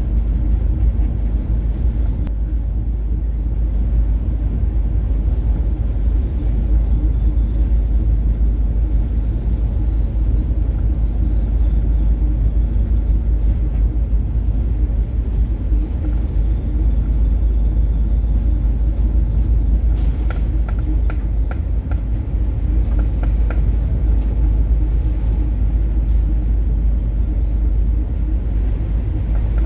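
Deep, steady rumble of a coastal cargo ship running through rough seas, with a short run of light rattling ticks about two-thirds of the way through.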